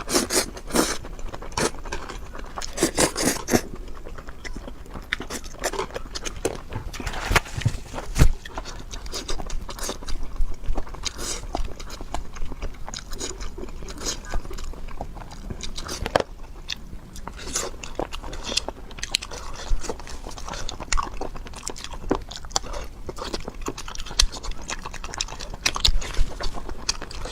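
Close-miked eating: a person biting and chewing food, with irregular crunches throughout.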